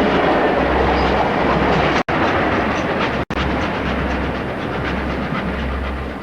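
Train running on the rails, a loud dense rolling noise, broken twice by brief cuts to silence about two and three seconds in.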